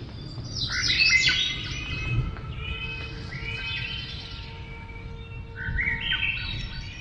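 Birds chirping, in three short bursts of quick calls: about a second in, around three seconds in, and near the end.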